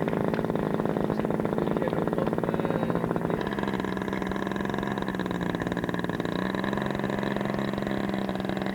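Model airplane engine running steadily; its note shifts about three and a half seconds in.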